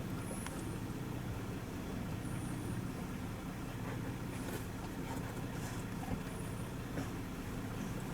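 Steady hum of a moving vehicle's engine and road noise while driving.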